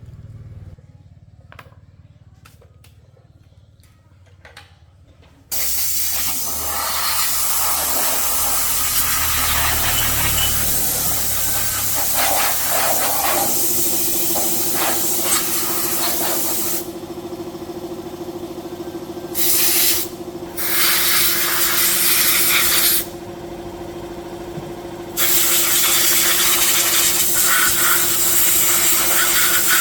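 A few light clicks and taps, then a loud pressurised spray starts suddenly with a steady hiss. It drops off briefly twice, and a steady hum runs under it from about the middle on.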